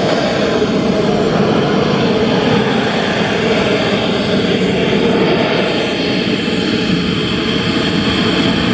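Turbine engine of a large RC scale jet running steadily: a loud, even roar with a faint high whine that drifts slightly in pitch.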